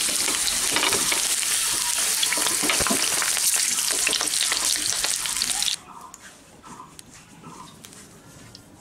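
Snake gourd pieces sizzling and crackling in hot mustard oil in a non-stick frying pan, with a slotted metal spatula scraping and tapping as the pieces are lifted out. The sizzling cuts off suddenly about two-thirds of the way through, leaving quiet.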